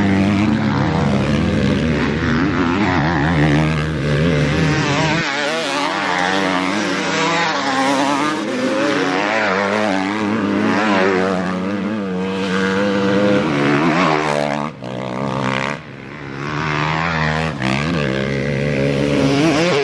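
Motocross dirt bike engine revving up and down continuously as it is ridden around the track, with the throttle chopped briefly twice near the end.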